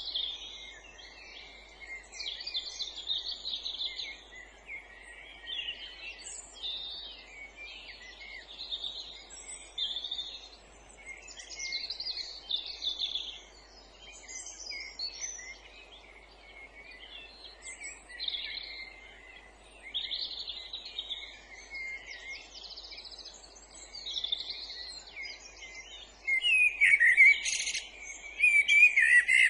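Several songbirds singing at once: a continuous mix of short, overlapping phrases and chirps, over faint steady background noise. Near the end a louder, closer bird bursts into song.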